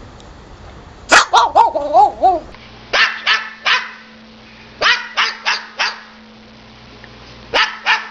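Dog-like barking: a wavering, whining call about a second in, then short sharp barks in quick groups of three, four and two.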